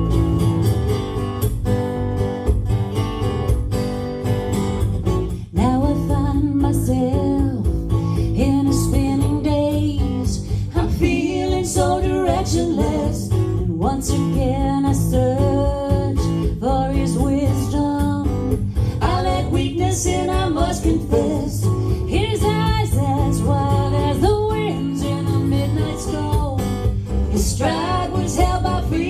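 A live song: strummed acoustic guitar accompaniment, with singing coming back in after a short break about five seconds in.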